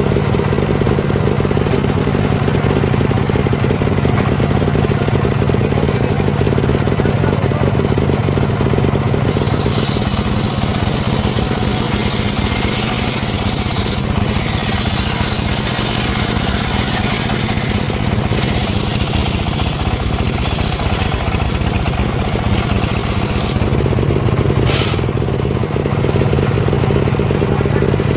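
Engine-driven homemade circular sawmill running at a steady speed. From about a third of the way in until near the end, the blade cuts through a log and adds a hissing rasp over the engine. A short sharp sound follows soon after the cut ends, and then the machine runs on alone.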